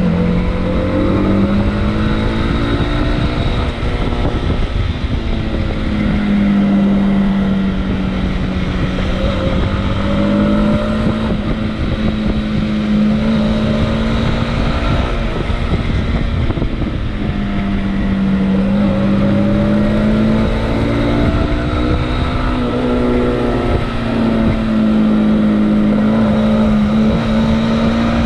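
Motorcycle engine running while riding, its pitch rising and falling over several seconds as the throttle and speed change, over a steady low rumble of wind and road noise.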